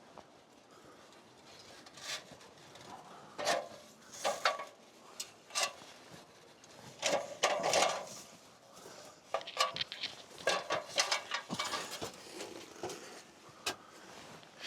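Rigging gear being handled: irregular clinks, knocks and rattles of strap and pulley hardware, coming in clusters with short pauses.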